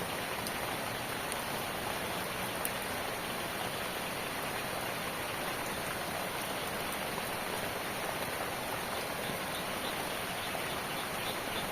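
Steady rain falling, an even hiss with a few sharper single drop hits now and then.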